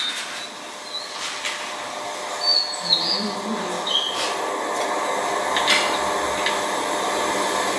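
A few short, high bird chirps over a steady background hiss.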